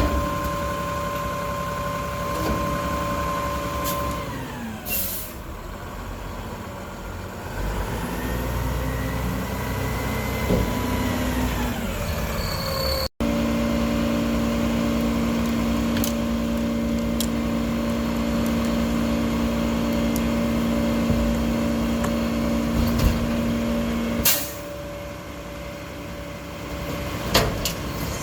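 Mack LR garbage truck with a Heil Half Pack body: diesel engine held at raised revs with a steady whine, dropping off about four seconds in with a sharp air hiss, then revving up again. After a brief gap it runs steadily at raised revs until a second sharp air hiss about twenty-four seconds in.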